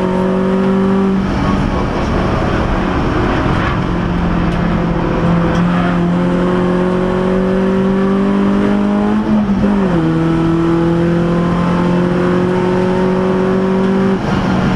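Race-prepared Renault Clio RS's four-cylinder engine heard from inside the cabin, pulling hard under full throttle with the pitch climbing slowly. It upshifts with a sudden drop in pitch about a second in and again about two-thirds of the way through, then drops again near the end.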